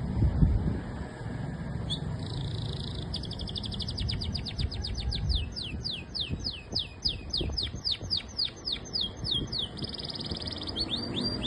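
A songbird singing: a buzzy note, then a long trill of quick descending whistled notes that slows as it goes, another buzzy note, and the sweeps starting again near the end, over a low background rumble.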